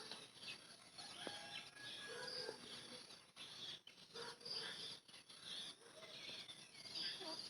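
Faint outdoor ambience of small birds chirping and calling in short, scattered notes, over a steady high hiss.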